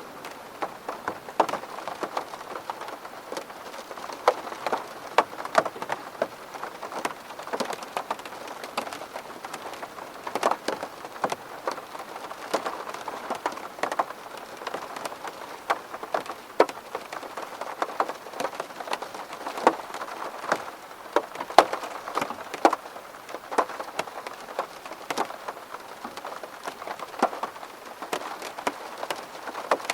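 Steady rain falling on a window, with many separate drops heard as sharp taps over an even hiss of rainfall.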